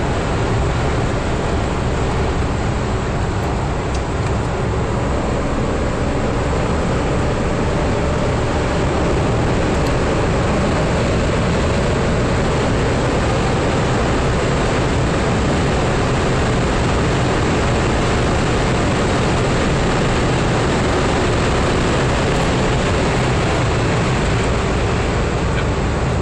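Mercedes-Benz 500E's 5.0-litre V8 and its road noise while the car is driving, a steady, loud rumble with no breaks. The car is running after its broken catalytic converters were dealt with.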